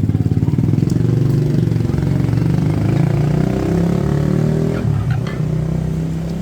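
A small engine running loudly with a fast, throbbing pulse, cut in abruptly and settling to a steadier, slightly quieter hum near the end.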